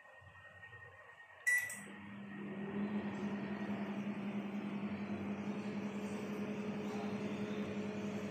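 LG microwave oven starting up: a sharp click with a short beep about a second and a half in, then a steady running hum that builds to a constant level.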